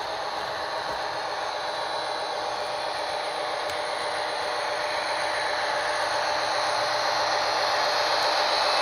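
Model train running on its track, a steady mechanical whirring of motor and wheels that grows gradually louder.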